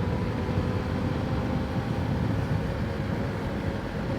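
Motorcycle riding noise heard from a mic inside the rider's helmet: a steady low rumble of the engine and passing air at cruising speed, with no gear changes or revving.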